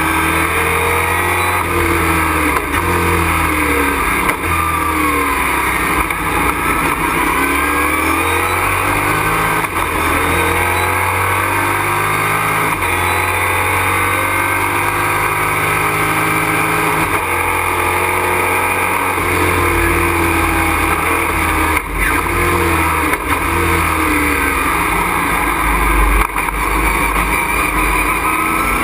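Race truck engine heard from inside the cockpit at speed, loud and continuous, its pitch repeatedly climbing and dropping as it revs up through the gears and backs off.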